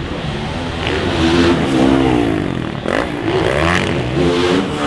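450 four-stroke motocross bike engine racing, its pitch climbing and dropping again and again as the throttle is worked and gears are changed.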